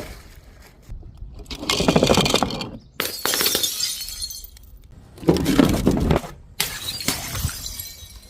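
Glass bottles or jars shattering, about four separate crashes one after another, each a sudden impact followed by a second or so of crackling, tinkling shards.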